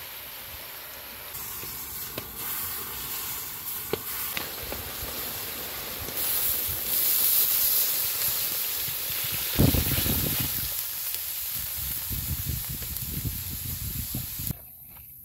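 Food frying in a hot pan, a steady sizzling hiss that swells partway through. A thump comes about ten seconds in, followed by a few low knocks. The sound cuts off suddenly near the end.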